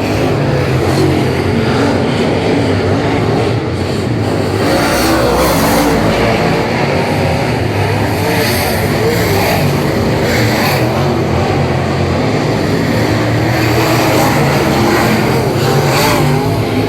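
Late model stock car racing engines, Chevy LS V8s, running hard at racing speed: a loud, continuous engine drone.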